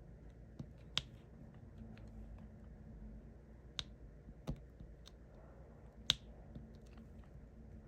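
Scattered sharp clicks and taps of small hard pieces, about four loud ones among fainter ticks: resin diamond-painting drills being pressed into place with a drill pen.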